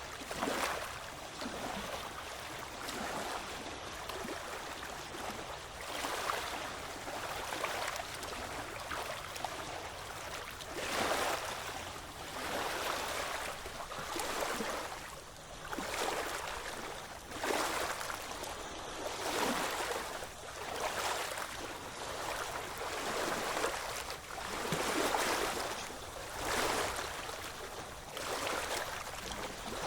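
Ocean waves washing in, one surge of surf noise every couple of seconds.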